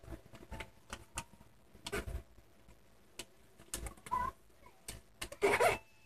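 A sheet of paper being folded and creased by hand: scattered rustles and soft taps, with a louder rustle about five and a half seconds in.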